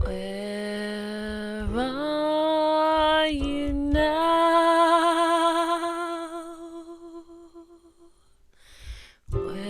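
Wordless vocal humming: long held notes that step up in pitch twice, the longest fading out with a wavering vibrato, followed by a breath near the end.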